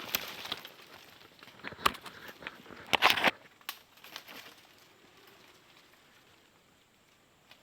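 Irregular crackling and rustling with a few sharp knocks, the loudest about three seconds in, dying away to faint background in the second half.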